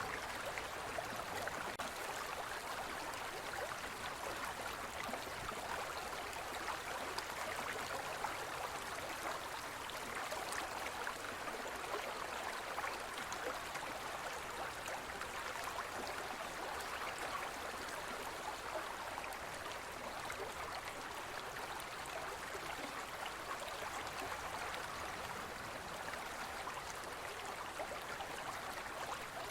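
Forest stream flowing: a steady, even rush of water with no breaks or changes.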